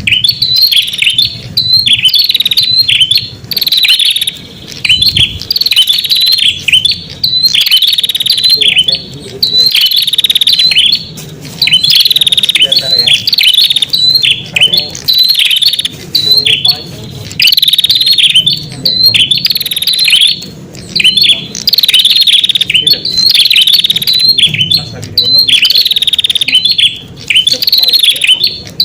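Prenjak (red-headed prenjak) calls played as a lure: rapid, high chirps repeated in quick phrases with short breaks between them, loud and continuous.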